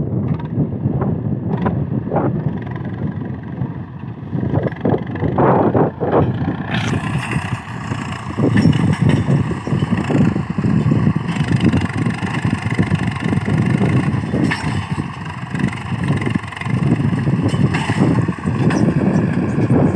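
Swaraj tractor's diesel engine running hard under a heavy sugarcane load, loud and rough throughout. About seven seconds in, the sound turns suddenly brighter and stays so.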